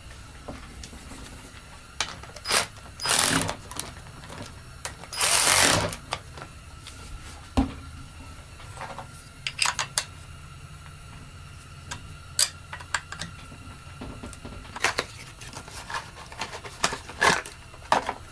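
Hand tools and chainsaw parts being handled on a workbench during reassembly: scattered clicks, taps and knocks of metal and plastic, with two longer scraping or rushing sounds, one about three seconds in and one about five seconds in, over a steady low hum.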